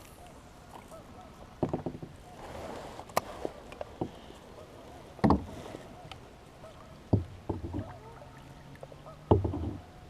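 Knocks and thumps against the hull of a small fishing boat, about five in all, with a short swish of water partway through. Geese honk faintly in the background.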